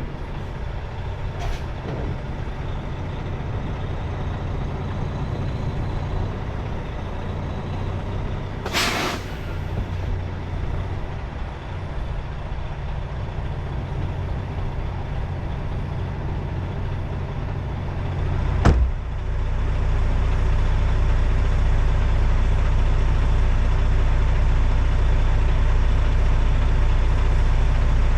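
Semi truck's diesel engine running steadily, with a short burst of hissing air about nine seconds in. After a sharp click a little past halfway, the engine gets louder and stays louder.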